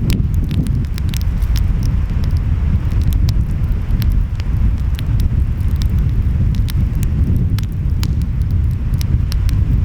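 Wood fire crackling, with frequent sharp pops, over a steady low rumble of ocean waves and wind.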